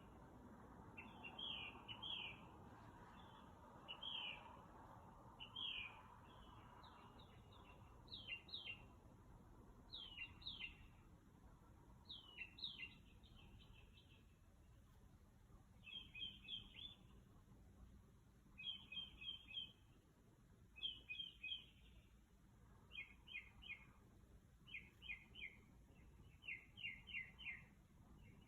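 A bird singing a long run of short, sharp phrases, each of two to five quick repeated notes, switching to a different phrase every second or two. The song is faint over a low hum.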